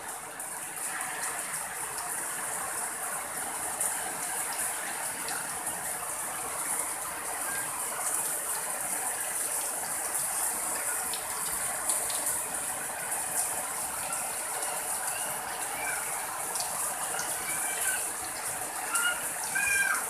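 Heavy rain pouring steadily on garden foliage and the ground, a continuous even hiss of falling water. A few short chirps sound over it near the end.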